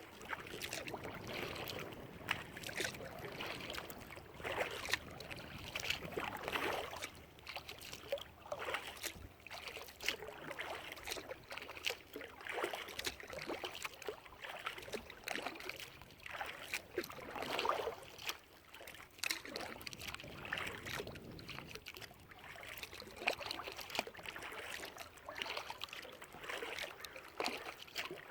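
Kayak paddle strokes: water splashing and dripping off the paddle blades as they dip and lift, in an uneven rhythm every second or two.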